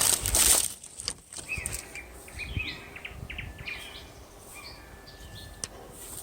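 A brief loud crunching rustle at the very start, then birds chirping with short repeated calls over quiet outdoor background.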